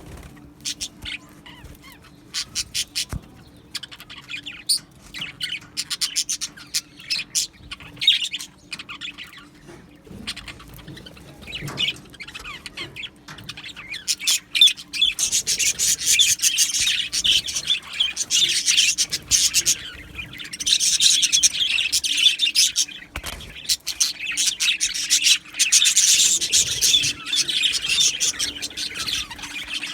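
A flock of budgerigars chirping and chattering: scattered short chirps at first, building to dense, continuous warbling chatter from about halfway in.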